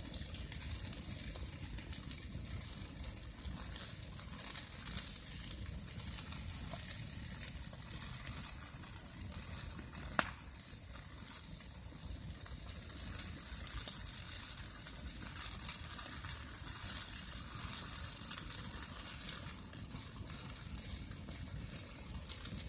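Bonfire of branches burning with a steady hiss, and one sharp pop from the burning wood about ten seconds in.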